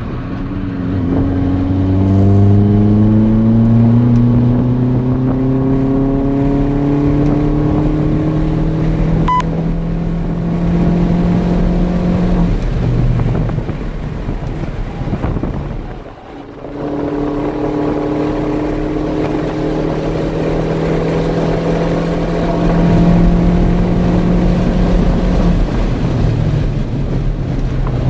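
Heard from inside the cabin, the 2008 Mini Cooper S's tuned turbocharged 1.6-litre four-cylinder, with JCW intake and exhaust, pulls hard at full throttle on track, its pitch climbing steadily for about twelve seconds. The engine then drops away under braking, dips nearly quiet for a moment, and climbs again through the next corner.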